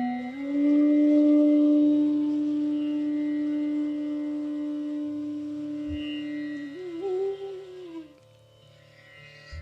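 Bansuri (North Indian bamboo flute) holding one long, steady low note, then bending up with a wavering ornament to a higher note that fades away about eight seconds in.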